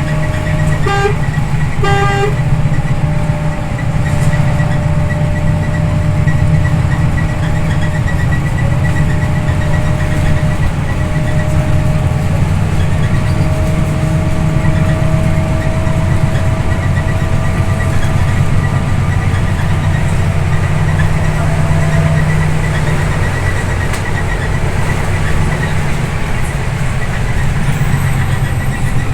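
Scania OmniLink I city bus under way, heard from inside: its diesel engine runs with a steady low drone and a whine that slowly rises in pitch for about fifteen seconds, then drops away. Two short beeps sound about one and two seconds in.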